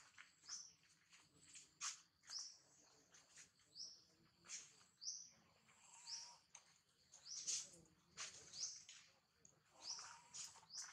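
Small birds chirping: short, high chirps repeating at uneven intervals, about one a second.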